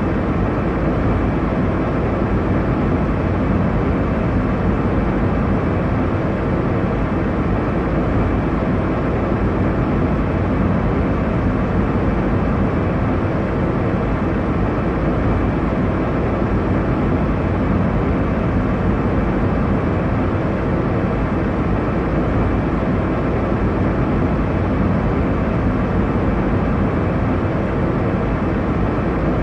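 Steady airliner cabin noise: a constant low rush of engine and airflow, heavy in the low end and even throughout, with no changes.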